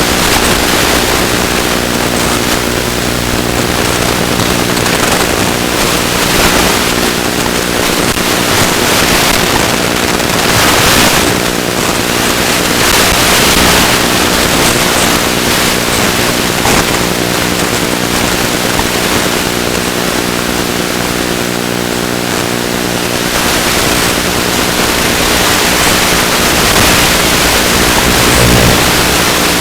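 Small electric motor and propeller of a ZOHD Drift FPV glider running at a steady drone, with wind rushing over the microphone that swells and fades.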